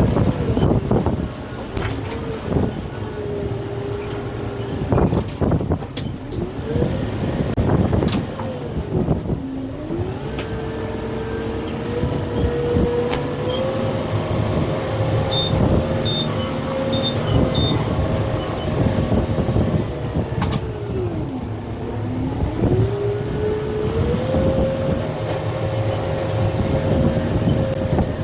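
Kubota M6-141 farm tractor's diesel engine working hard, its pitch dropping sharply twice, about a third of the way in and again past two-thirds, as it is pulled down under load, then climbing back. Scattered knocks and cracks sound over the engine.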